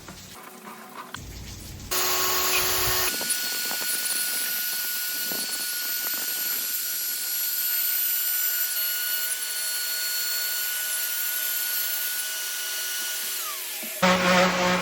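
Power tool motor running with a steady high whine over the noise of cutting, starting about two seconds in; the whine winds down near the end, and a different loud machining noise cuts in just before the end.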